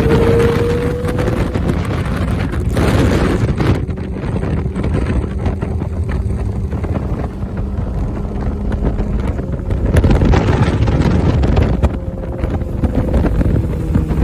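Heavy wind buffeting on the microphone of a riding Kawasaki ZX-6R, with the bike's inline-four engine running steadily underneath, its pitch rising slightly at the start.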